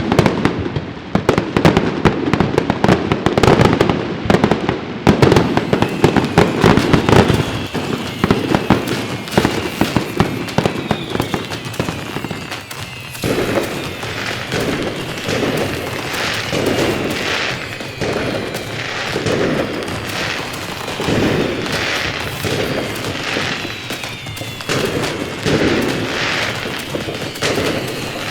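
Fireworks going off. The first half is a dense, rapid crackle of firecrackers. From about halfway it thins into a run of bangs roughly once a second, with falling whistles over them.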